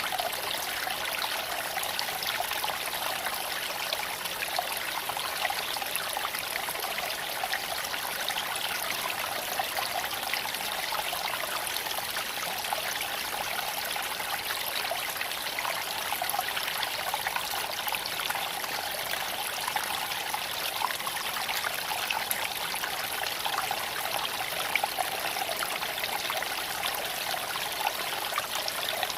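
Creek water flowing and trickling over stones, a steady rushing splash with scattered small sharp ticks through it.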